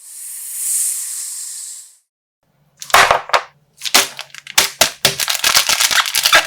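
A hiss that dies away about two seconds in, then a rapid, irregular run of sharp crackles and pops: a slime-filled plastic bag being squeezed, popped and torn open.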